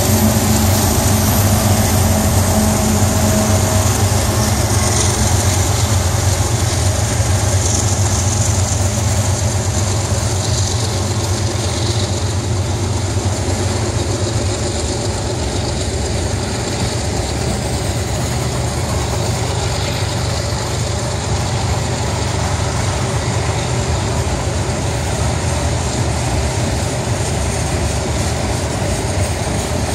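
Union Pacific diesel freight locomotives passing, their steady low engine drone strongest at first and easing off over the first ten seconds or so, followed by a long string of freight and tank cars rolling by on steel wheels with a steady noise.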